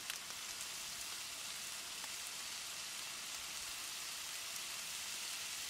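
Diced chicken, onion and red pepper sizzling in a frying pan: a steady hiss with a few faint clicks.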